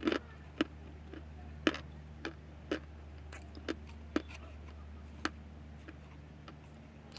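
Chewing of chunks of cornstarch: sharp, crisp crunches about twice a second, over a steady low hum.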